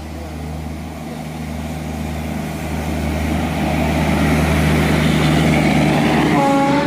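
Electric-hauled Garib Rath express train passing on the through line: the rumble of wheels on rail and a steady low hum from the locomotive, growing louder as the train arrives and the coaches run past. A short horn note sounds near the end.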